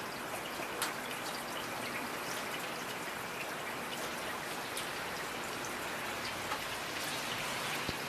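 Steady rain falling, with individual drops ticking sharply on a surface; one drop stands out a little under a second in and another at about six and a half seconds.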